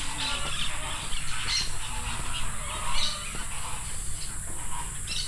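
Assorted birds calling, short calls scattered throughout over a steady low rumble.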